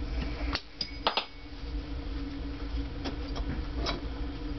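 A few sharp metal clicks from valve-removal work on a motorcycle cylinder head, with the valve spring compressor and parts knocking together. They come about half a second in, about a second in and near the end, over a steady low hum.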